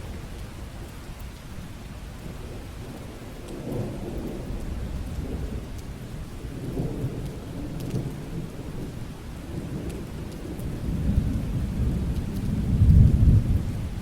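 Steady rain falling, with thunder rumbling in rolling swells over it; the biggest, deepest rumble comes near the end.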